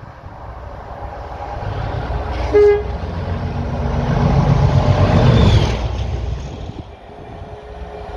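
English Electric Class 37 diesel locomotive passing close by: its engine rumble builds, it gives one short horn toot about two and a half seconds in, is loudest a little after halfway, then fades away.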